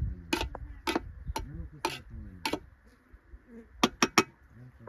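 A series of sharp taps, about two a second, then two quick clicks close together near the end, over faint voices.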